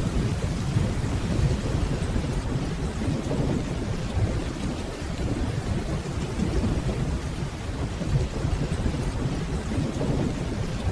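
Steady rainfall with a low, rolling rumble of distant thunder running underneath it.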